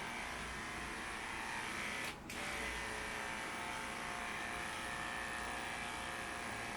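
Electric pet grooming clippers running steadily, with a brief dip in the sound about two seconds in.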